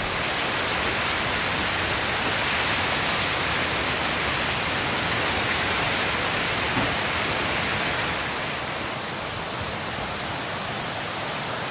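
Steady heavy tropical-storm rain pouring down as a dense, even hiss, easing slightly about eight seconds in.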